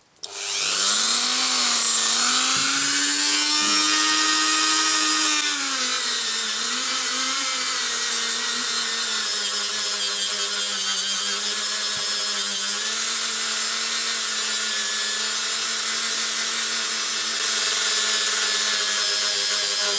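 Dremel rotary tool with a polishing head spinning up and running steadily, polishing a shock absorber housing with polishing paste. Its whine rises as it starts, drops in pitch about five seconds in as the head bears on the work, and runs a little louder near the end.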